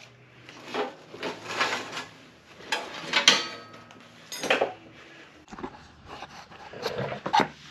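Knocks, clatter and scraping of metal parts and tools being handled in a workshop.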